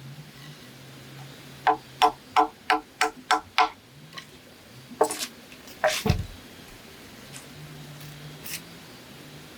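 A blade chopping bamboo: a quick run of about seven ringing knocks, roughly three a second, then two heavier strokes a couple of seconds later, the second with a deep thud.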